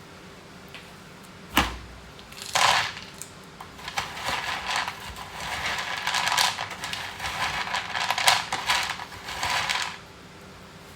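Cat food being put into a dish: a sharp knock, then a long stretch of dense rattling clatter that stops near the end.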